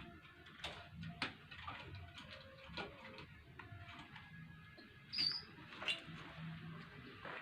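Pigeon squabs giving thin begging squeaks while a parent pigeon crop-feeds them, with scattered clicks and soft low hums; one sharper high squeak comes about five seconds in.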